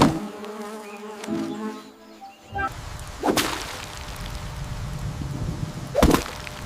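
Music breaks off about two and a half seconds in and gives way to a steady hiss of rain with a low rumble of thunder. Two sharp thunder cracks come about halfway through and near the end.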